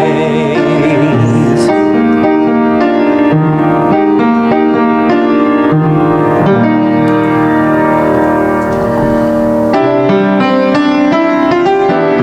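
Piano playing slow, sustained hymn chords as an instrumental interlude. In the first second or so, the choir's held final note with vibrato dies away.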